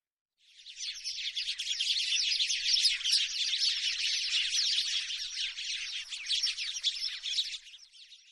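House sparrow chirping in a dense, rapid chatter of high chirps, starting about half a second in and fading out just before the end.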